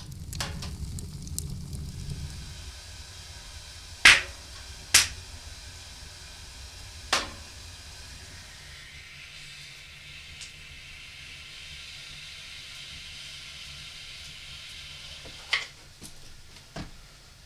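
A few sharp knocks, one after another, over a low rumble that fades out, then a faint steady hiss that comes in about halfway and holds, with two more knocks near the end.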